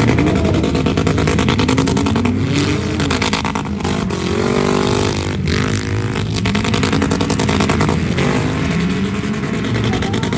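Demolition-derby vehicle engines revving hard, their pitch rising and falling again and again, over a constant rattling clatter.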